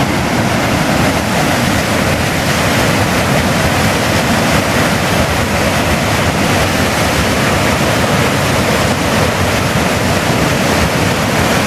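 A swollen river in flood pouring over a weir: a loud, steady rush of water.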